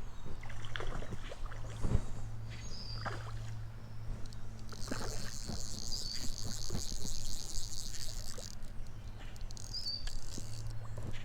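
A high, pulsing buzz that starts and stops abruptly, lasting about four seconds in the middle, with a short high chirp repeated a few times.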